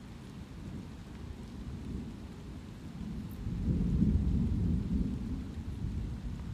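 Steady light rain with a roll of thunder that swells about halfway through, peaks, and slowly rumbles away.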